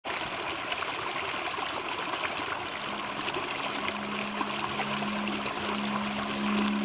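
Small stream of running, trickling water, an even rushing with little splashes. About halfway through, a low, sustained music note fades in beneath it and grows louder toward the end.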